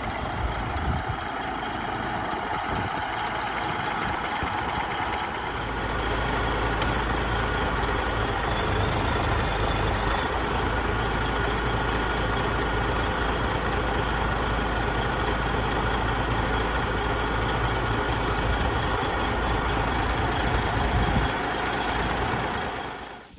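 A self-loading log truck's diesel engine runs steadily while powering the hydraulic loader that unloads the logs. The engine note picks up and deepens about five seconds in and eases off shortly before the end.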